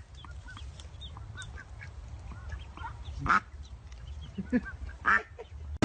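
Birds calling: many short, high calls throughout, with a few louder calls about three, four and a half and five seconds in.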